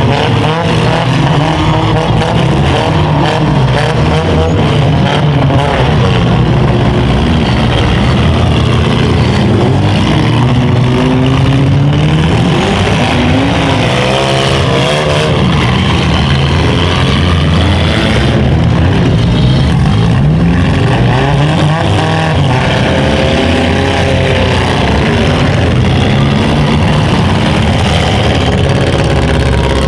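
Several small-car demolition derby engines running and revving at once, their pitches rising and falling over one another, with occasional knocks.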